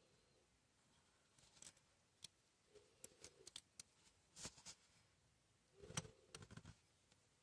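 Faint, scattered clicks and light taps of small objects being handled, with a cluster of quick clicks about three seconds in and a louder knock about six seconds in.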